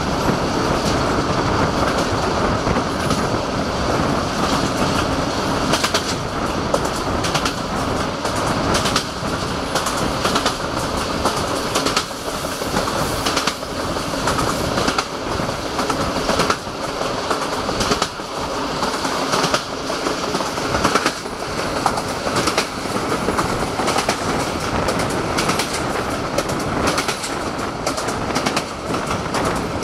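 Passenger train coaches rolling along the track at speed, wheels clacking over rail joints at uneven intervals over a steady rushing noise, heard from an open coach window.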